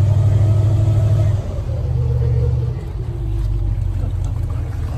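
Airboat engine and propeller running with a steady low drone, which eases slightly about a second and a half in.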